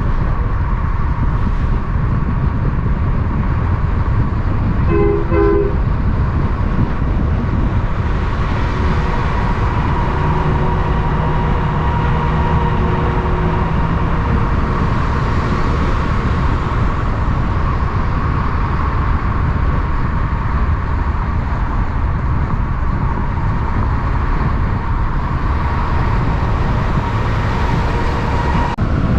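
Steady, loud rumble of heavy road traffic as trucks pass, with a short two-pulse horn toot about five seconds in.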